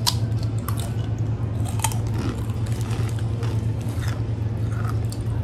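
Two people biting and chewing a hollow, honeycomb-shaped, sugar-coated sweet bread snack, with scattered short crunches over a steady low hum. The snack has a weird crunch.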